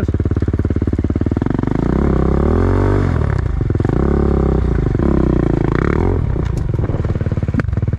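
Enduro motorcycle engine running off-road, its revs rising and falling several times as the throttle is worked, with a couple of sharp clicks near the end.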